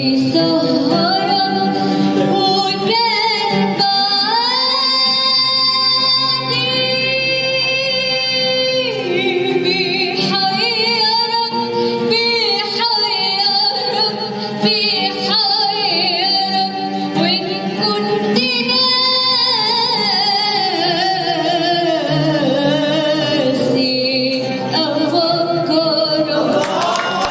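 An Arabic song: a woman sings long held notes with a wavering vibrato over steady instrumental accompaniment.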